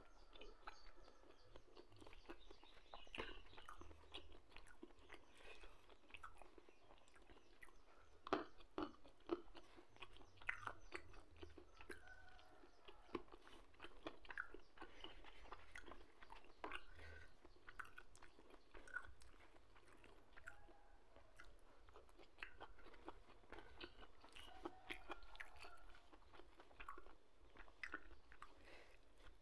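Quiet close-up chewing of a person eating pecel with rice and noodles by hand, with small mouth clicks throughout and a sharper click about eight seconds in.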